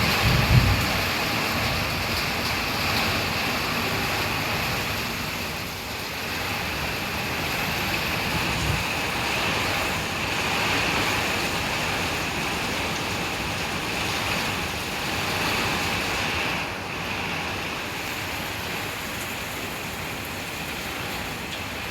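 Heavy rain falling steadily, an even hiss with no letup. There are low rumbles of wind on the microphone in the first second or so.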